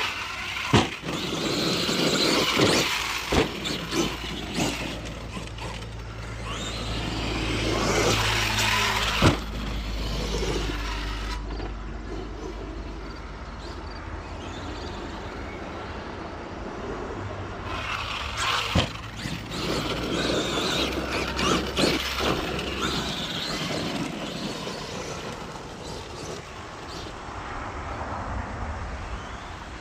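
Arrma Outcast 8S electric RC stunt truck being driven hard on a dirt track: surges of motor and tyre noise as it accelerates, with a few sharp knocks from impacts.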